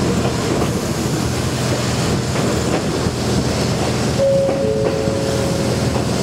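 Konan Railway Owani Line electric train running, heard from on board: a steady rumble of wheels and running gear with a low hum. About four seconds in, a steady high squeal starts and lasts nearly two seconds, with a second, lower tone joining it briefly.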